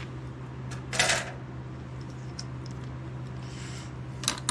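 Metal engine parts and hand tools clanking as they are handled in the shop: a sharp clank about a second in and another near the end, with light ticks between, over a steady low hum.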